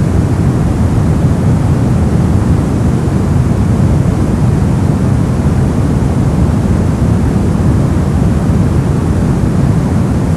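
Steady brown noise: an even, deep rumbling hiss with most of its energy in the low frequencies, unchanging throughout.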